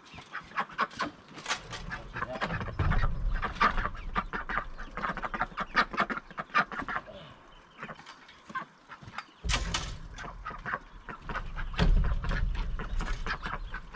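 Domestic ducks quacking repeatedly in quick, overlapping calls, with a low rumble under them twice.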